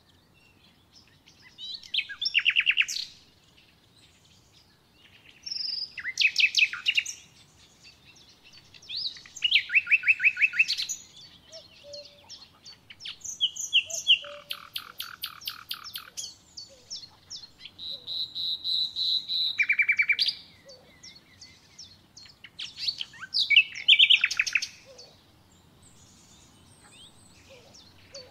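Songbird singing: short phrases of rapid high notes, repeated every few seconds with quiet pauses between.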